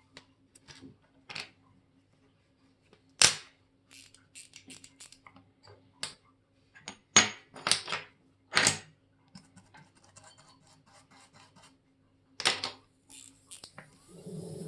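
Sharp small metal clicks and taps from watchmaker's tools and parts on a Molnija 3601 chronograph movement, coming at irregular intervals, a few much louder than the rest, with a short stretch of fine scratching in the middle.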